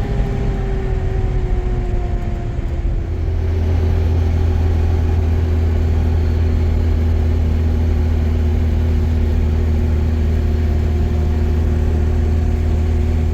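An engine running. Its pitch sinks slightly over the first few seconds, then it settles into a steady, slightly louder low hum from about three and a half seconds in.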